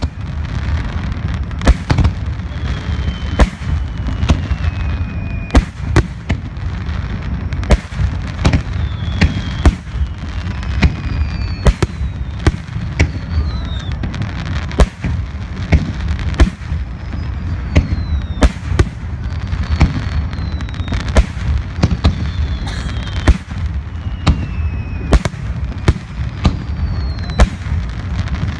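A fireworks display in its closing barrage: sharp bangs going off in rapid succession, often one or two a second, over a continuous low rumble of booms, with falling whistles drawn out here and there.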